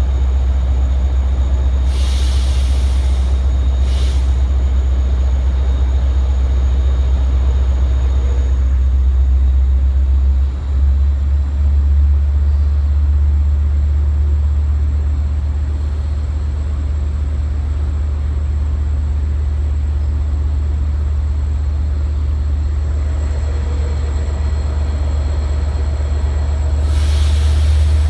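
Long Island Rail Road diesel-hauled bilevel passenger train at a station platform, with a loud, steady low rumble. Short hissing bursts come about two and four seconds in, and again near the end.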